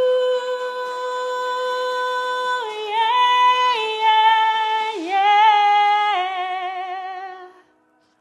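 A woman singing unaccompanied: one long held note, then several shorter held notes with vibrato that step mostly downward, fading out near the end.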